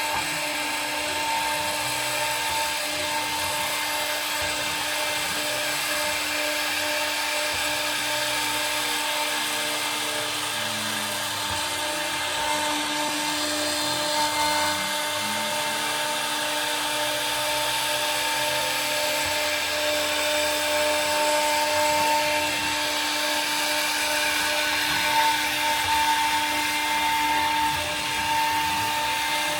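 CNC router spindle whining steadily at high speed while a 1.8 mm end mill cuts 1/8-inch aluminium in very shallow passes, with faint tones gliding up and down underneath as the machine moves.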